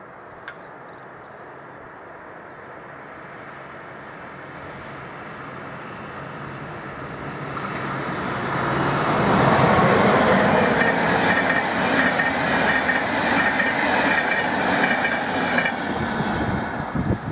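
A train approaching and passing close by on the rails, growing steadily louder over about eight seconds, then a loud stretch of clattering wheels on the rail joints. It begins to fade near the end.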